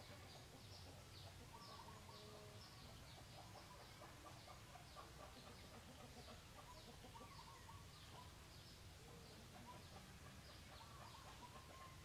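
Faint outdoor birdsong: a short, high chirp that slides downward, repeated steadily about two to three times a second, with scattered fainter lower notes.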